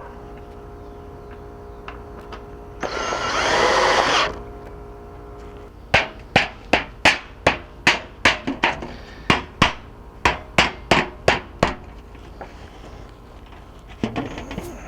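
A loud burst of noise lasting about a second and a half, then a run of about fifteen sharp hammer blows, two or three a second.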